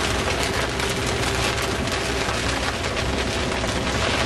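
Heavy rain falling on a sailboat's cabin roof and windows in a thunderstorm: a dense, steady patter of drops, heard from inside the cabin.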